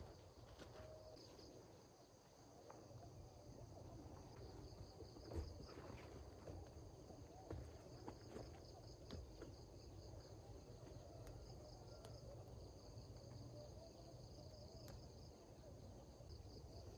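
Faint insects chirping in a steady, pulsing trill, with a few soft clicks scattered through.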